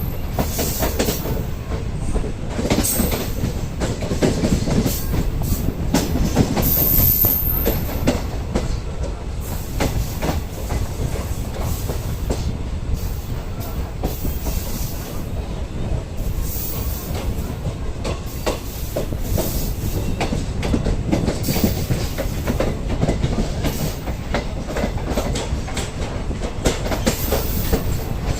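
Train running along the track: a steady rumble with wheels clacking over the rails. Brief high wheel squeals come near the start and again about seven seconds in.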